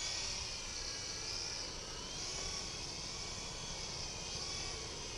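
Electric motors and rotors of WL Toys V912 RC helicopters whining in flight, the pitch of several thin tones drifting up and down as the throttle changes.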